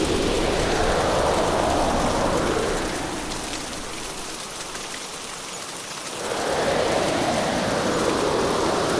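Hurricane storm: heavy rain with wind in a dense, even rush of noise, which eases a little about three seconds in and swells back up at about six seconds, as with a passing gust.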